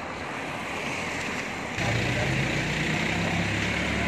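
Car engine running close by, a steady low hum over street noise that comes in suddenly about two seconds in.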